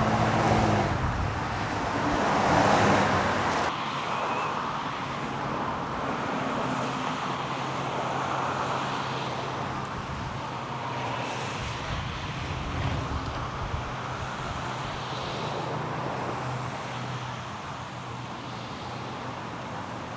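Road traffic noise: a motor vehicle passes close about two to three seconds in, then the steady hum of traffic settles and fades slightly.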